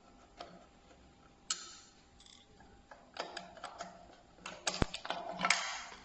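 Irregular clicks and light knocks of hand tools and parts being handled while a rear wheel is taken apart, growing busier and louder over the last two seconds.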